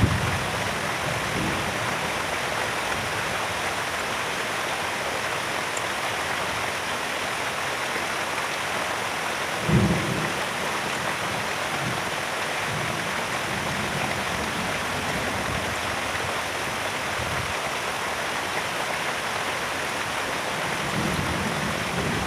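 Heavy, steady rain in a thunderstorm, with short low rumbles of thunder, the loudest about ten seconds in.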